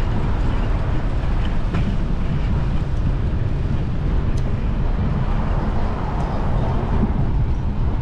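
Steady low rumble of wind buffeting the microphone while cycling, mixed with city street traffic.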